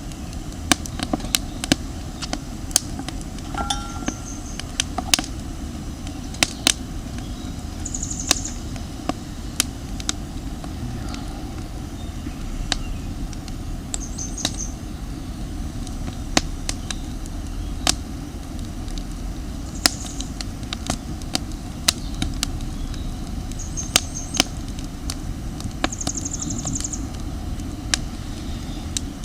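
Campfire of damp firewood crackling, with frequent sharp, irregular pops over a steady low rumble.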